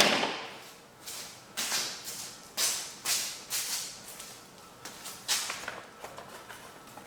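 A hand tool working a stripped Allen bolt that is being turned with an oversized Torx bit jammed into it: a series of short metallic scraping strokes, about two a second at first, then fewer toward the end.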